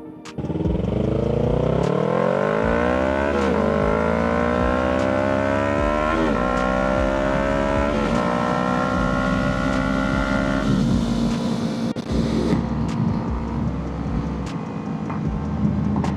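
Kawasaki Ninja 300's parallel-twin engine accelerating hard through the gears: the revs climb, fall sharply at upshifts about three and a half and six seconds in, and climb again. About eleven seconds in the climbing stops and the engine runs steadily at a lower pitch.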